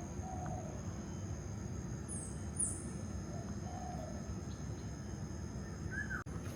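Birds calling over steady outdoor background noise and a steady high-pitched whine: a few short calls, two high falling chirps about two seconds in, and another call near the end, just before the sound briefly cuts out.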